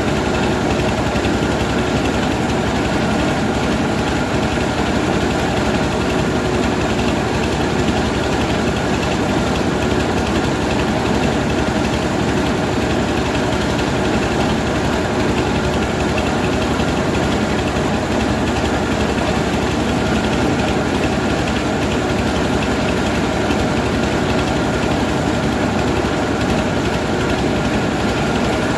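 Rice milling machine running steadily, a loud, even mechanical drone with no change throughout.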